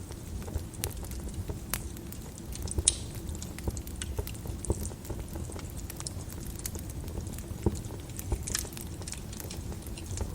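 Wood fire crackling in a fireplace: irregular sharp pops and snaps over a low, steady flame noise, with one louder pop about three seconds in.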